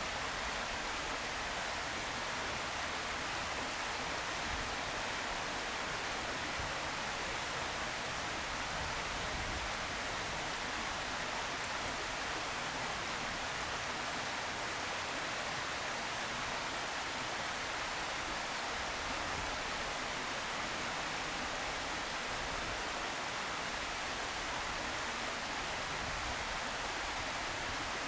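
A steady, even hiss with no separate sounds in it.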